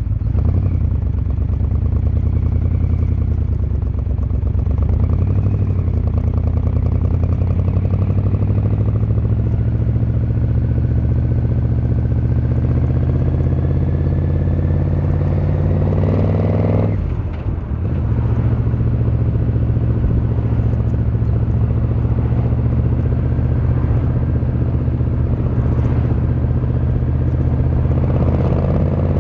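Yamaha XVZ1300 Royal Star's V4 engine and exhaust under way, pitch climbing steadily as the motorcycle accelerates through a gear. About halfway through it drops and dips briefly at an upshift, then settles into a steady run.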